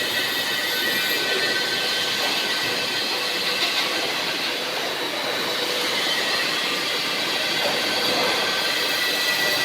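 Steady mechanical noise with faint, high squealing tones held throughout, like steel wheels running on rails.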